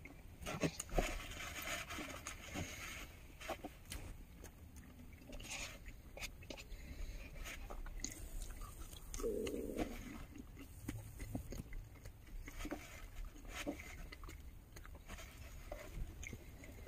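Close-up chewing and crunching of crispy fried potatoes, with scattered small crackles and clicks of biting, plus a short low hum about nine seconds in.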